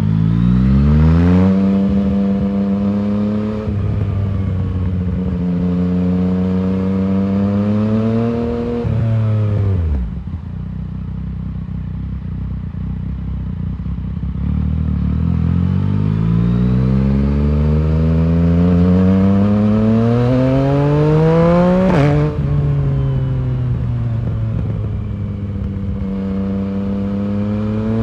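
Yamaha MT-09's inline three-cylinder engine through a full Arrow exhaust, pulling through the gears. The revs climb with a shift drop early on, fall away as the throttle closes, hold low for a few seconds, then rise in one long pull before dropping sharply at an upshift about 22 seconds in.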